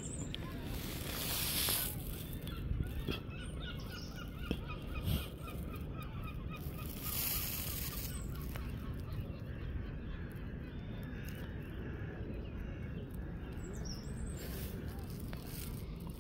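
A bird calling in a quick run of short repeated notes, about four a second, for a few seconds starting about three seconds in, with fainter calls later, over steady outdoor background noise.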